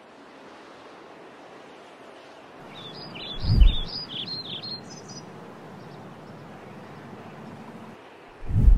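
Birds chirping in a quick run of rising and falling notes over a steady outdoor hiss, with a deep low boom about three and a half seconds in and another near the end.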